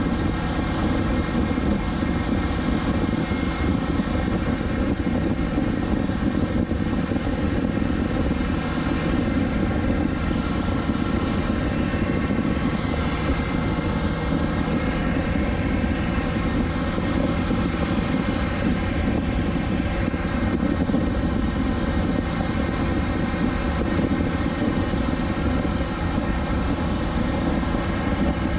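2020 BMW S1000XR's inline-four engine running at a steady speed while cruising, its note holding pitch throughout, over a steady rush of wind and road noise.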